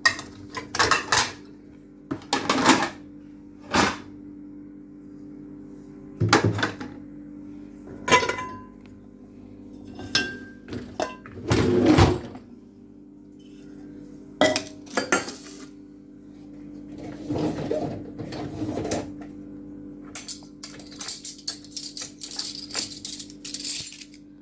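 Clean dishes being handled and set down: separate clinks and knocks of crockery every second or two, then a quick run of cutlery clattering near the end.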